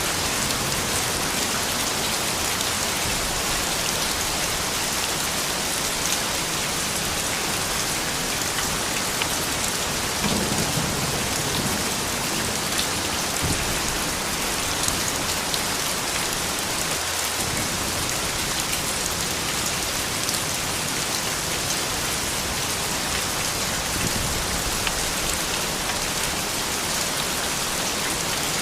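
Steady rain falling, a dense even patter of drops with no break.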